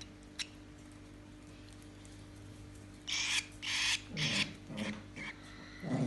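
Eight-day-old cockatiel chick giving raspy, hissing begging calls while being hand-fed: about five short rasps in quick succession starting about halfway through, after a quiet first half.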